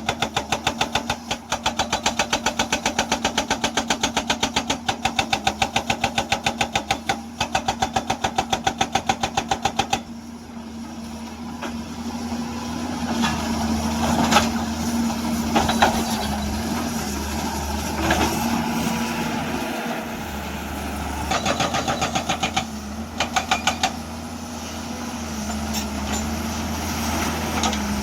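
Hyundai excavator's hydraulic breaker hammering rock in a rapid, even train of blows for about ten seconds, then stopping while the diesel engine keeps running with a steady hum. A few single knocks follow, and two short bursts of hammering come again about three-quarters of the way in.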